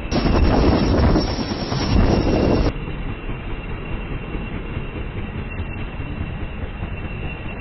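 Helicopter in flight heard from inside the cabin: a steady rumble of rotor and engine with a high whine held throughout. A louder, brighter stretch in the first three seconds stops abruptly.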